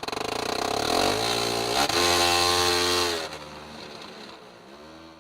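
A vehicle engine revving hard, its pitch climbing for about a second and then dropping away, with a shorter rev near the end.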